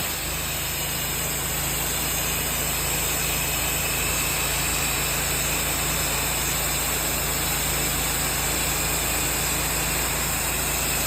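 A pressure-washing rig's engine running steadily, with an even hiss of water spray over its low hum.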